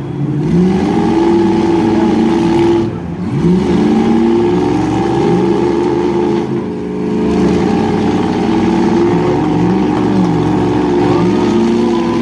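Several truck engines revving hard at once, their pitch climbing and then dropping again every two to three seconds as they accelerate and back off, with only a couple of short dips in level.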